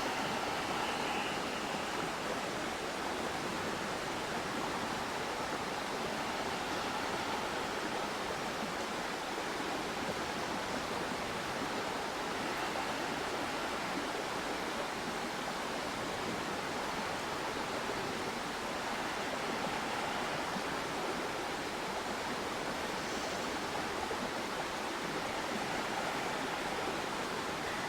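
A river flowing steadily over rocks: an even, unbroken rush of water.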